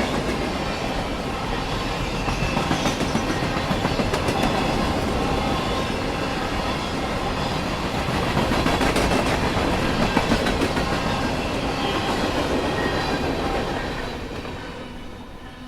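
Freight train of grain hopper cars rolling past, steel wheels clicking over the rail joints with a steady rumble. The sound dies away over the last couple of seconds.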